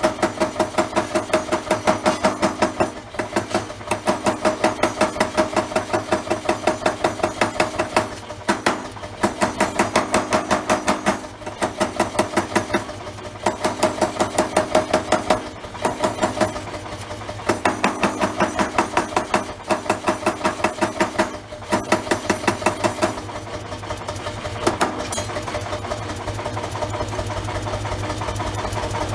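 Mechanical forging hammer striking steel in runs of rapid, even blows, each run about two seconds long with short pauses between. Near the end the blows stop and a steady machine hum rises.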